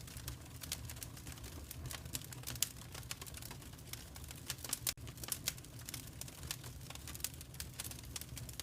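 Wood fire in a fireplace crackling: a dense, irregular run of sharp snaps and pops over a low steady rumble of the flames, with a few louder pops about two and a half and five seconds in.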